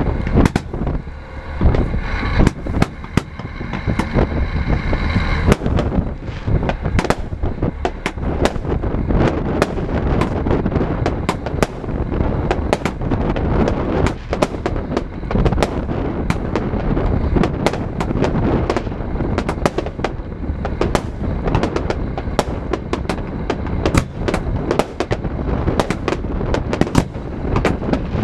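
Fireworks display going off in a dense, continuous barrage of bangs and crackles. A steady high tone sounds from about two to five seconds in.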